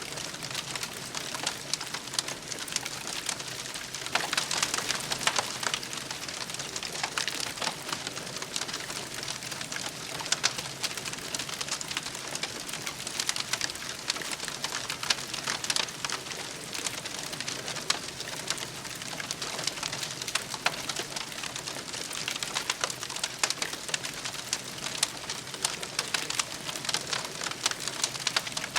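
Wood campfire crackling, a steady hiss of flame with many small sharp pops, a little louder about four seconds in.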